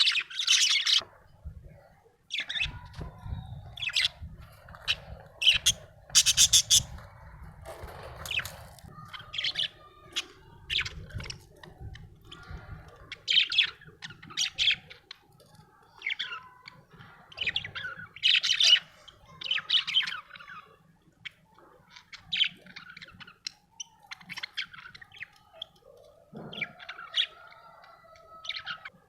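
Budgerigar chirping and squawking in a steady string of short, sharp calls. A low rumble runs underneath for the first half or so.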